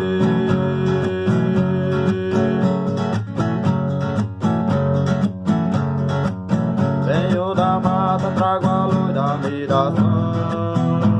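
Acoustic guitar strummed in a steady rhythm, with a wavering melody line over it for a couple of seconds about two-thirds of the way through.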